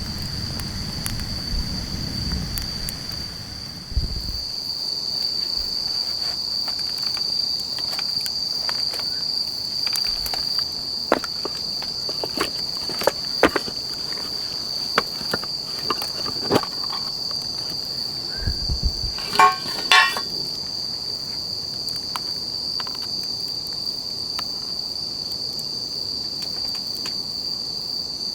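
Steady high-pitched chirring of crickets, with scattered clicks and knocks and two louder knocks close together about two-thirds of the way through.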